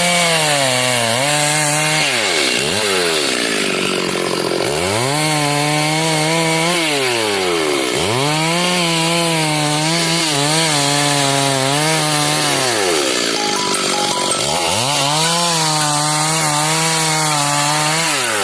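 Stihl MS 382 two-stroke chainsaw ripping through a log at high revs, with the engine note falling away and climbing back about four times as the throttle eases off and opens again.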